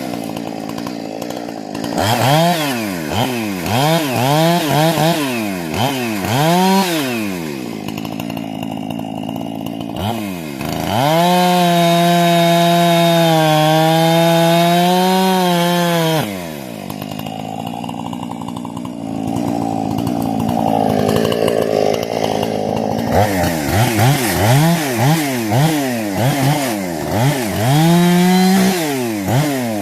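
Husqvarna 460 two-stroke chainsaw, running with a modified carburettor and a modded muffler. The engine is revved in quick blips that rise and fall in pitch, then held at a steady high rev for several seconds around the middle. After that comes a rougher, uneven stretch, and near the end there are more quick revs.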